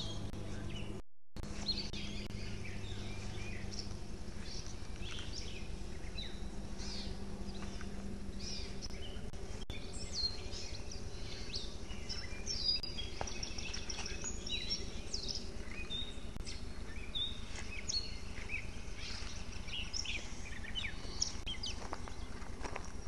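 Several songbirds chirping and singing at once, many short overlapping calls and trills, over a steady background hiss with a faint low hum. The sound drops out very briefly about a second in.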